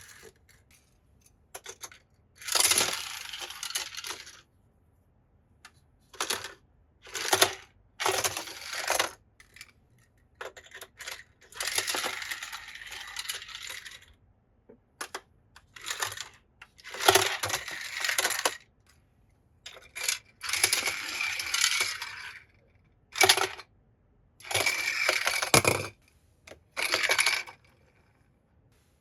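Toy cars clattering and rattling on a plastic track in about a dozen separate bursts of hard, clinking noise, some short and some up to two seconds long, with quiet gaps between them.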